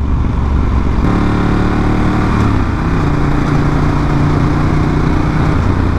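Ducati 1198 superbike's V-twin engine running at steady riding revs, heard from the saddle over a steady low wind rumble. Its note steps down in pitch about two and a half seconds in, then holds until shortly before the end.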